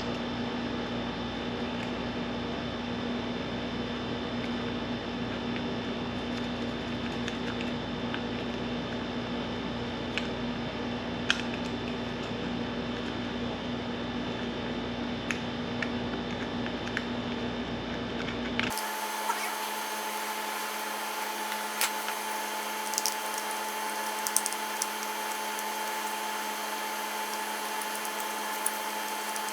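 Steady machine hum and hiss with occasional light clicks and taps of hand tools. The hum changes abruptly about two-thirds of the way through to a thinner, higher tone.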